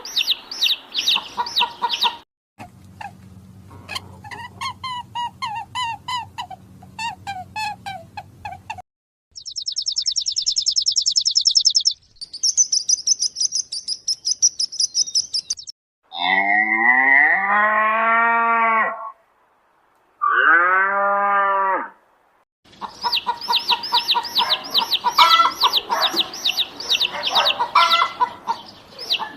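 Farmyard birds calling in a string of short, separate clips: fast high-pitched chirping and peeping, a rapid trill, and two long drawn-out calls in the middle, before dense chirping returns near the end.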